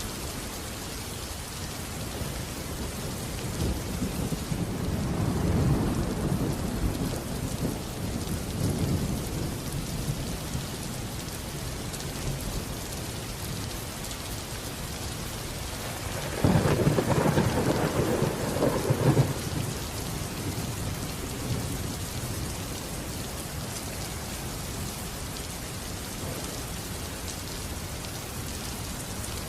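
Steady heavy rain with two rolls of thunder: a slow rumbling swell about three seconds in that fades over several seconds, and a louder, sharper clap that breaks suddenly about halfway through and rumbles for about three seconds.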